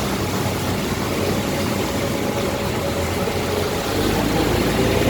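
Boat engine running steadily with a low hum, growing louder about four seconds in.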